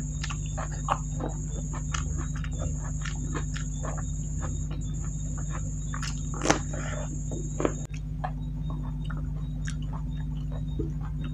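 Close-miked eating: wet chewing and lip-smacking of rice and vegetables eaten by hand, with a sharper bite into a raw cucumber slice about six and a half seconds in. A steady high-pitched whine runs beneath and cuts off suddenly near the end, over a constant low hum.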